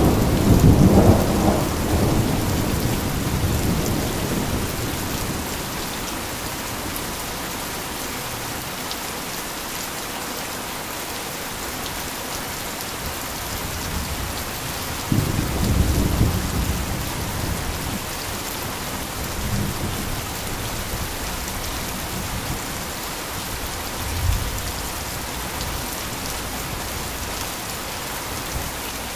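Heavy rain falling steadily, with rolls of thunder: a loud rumble fading away over the first few seconds, another about halfway through, and smaller, shorter rumbles later.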